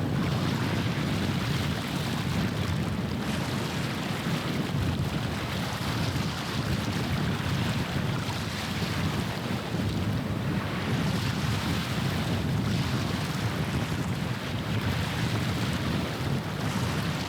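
Steady wind rumbling on the microphone, with water washing along the shore.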